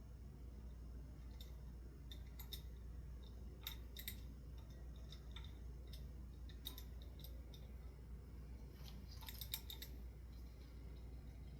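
Faint scattered clicks and small handling noises of parts of a ceiling fan's light kit being worked by hand, in small clusters a few seconds apart, over a low steady hum.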